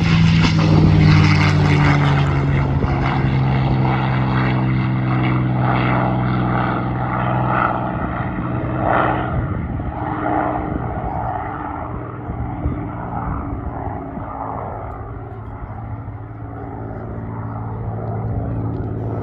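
P-51 Mustang's piston engine at full takeoff power as the fighter takes off and climbs away. The note is loudest at the start, then falls slowly in pitch and fades and dulls.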